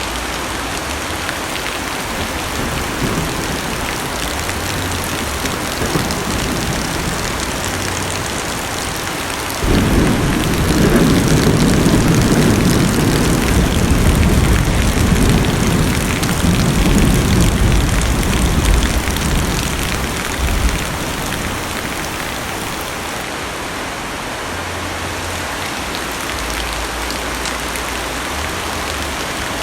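Heavy rain drumming steadily on a car's roof and windows, heard from inside the cabin. About ten seconds in a deep rumble of thunder starts suddenly and rolls for around ten seconds before fading back under the rain.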